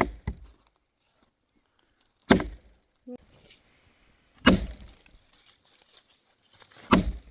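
Firewood being chopped: four heavy blows land about two seconds apart, each with a short crack after it.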